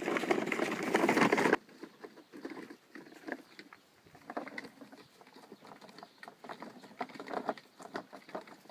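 Toy garbage truck pushed over garden soil: a dense scraping of its plastic wheels and body that stops abruptly about a second and a half in, then scattered light crackles and taps as it bumps along.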